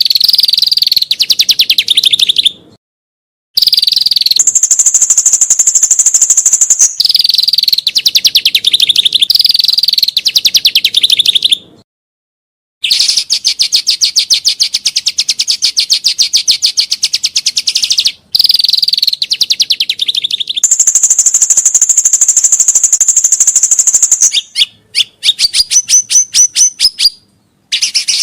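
A songbird singing long, very fast trills, some lower and rasping and some higher and clearer, in phrases of a few seconds that cut off suddenly. Near the end comes a run of separate sharp, rising notes.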